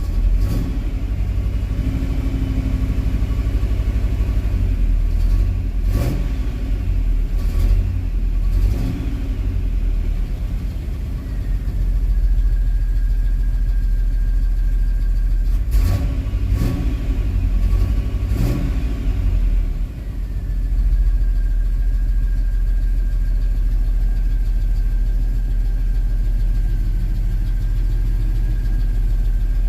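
A 1968 Oldsmobile 442's 400 V8 running steadily at idle. The owner calls the engine a little tired. A few sharp clicks come about six to nine seconds in and again around sixteen to nineteen seconds, and a thin steady whine sets in about twelve seconds in.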